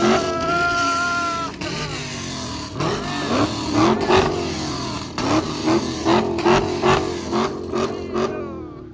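Car engines revved hard over and over, each rev rising quickly, about two a second, with many sharp cracks through the middle and end. A steady high tone sounds for about a second and a half at the start.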